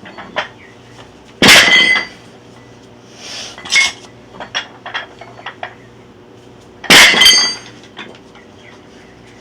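Stacked weight plates on a Rolling Thunder grip handle clanking: two loud metal clanks with ringing, about a second and a half in and again near seven seconds, with lighter clinks and taps between.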